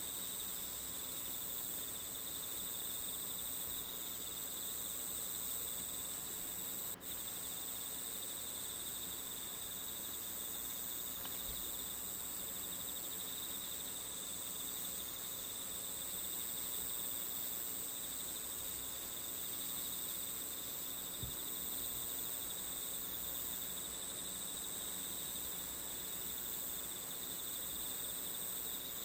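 Steady chorus of crickets chirping, a constant high-pitched trill with a brief dropout about seven seconds in.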